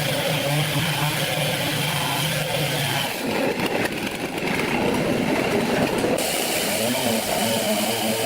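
A motor or engine running steadily, its sound changing about three seconds in.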